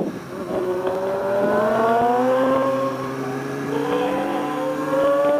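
Motorcycle engine accelerating out of a turn: its pitch climbs steadily, drops briefly about three seconds in as with a gear change, then climbs again.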